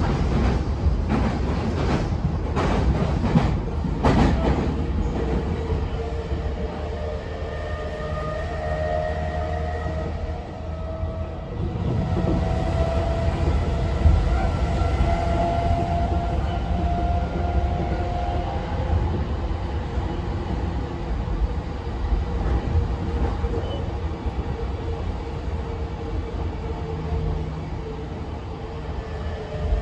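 Interior running sound of a Chuo Line electric train at speed: steady low wheel-on-rail rumble with a run of rail-joint clicks in the first few seconds. About eleven seconds in the train enters a tunnel and the rumble becomes louder and more enclosed, and a thin steady whine comes and goes in the middle.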